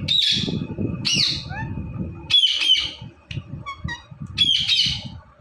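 Indian ringneck parakeet screeching: loud, harsh squawks coming in pairs, six in all, with a few short faint chirps in the middle.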